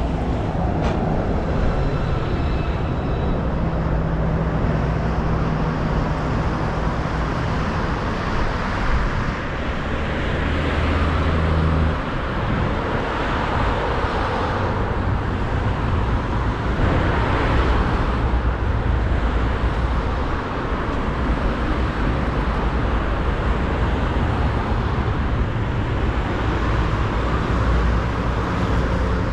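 Steady motor-vehicle traffic noise with a low engine hum that shifts in pitch about twelve seconds in.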